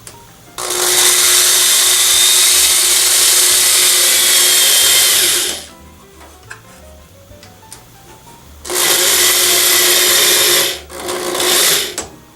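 Electric drill running three times as it bores out old rubber pins in a metallophone's wooden resonator box. The first run lasts about five seconds, then a two-second run and a short burst near the end. The drilling is noisy.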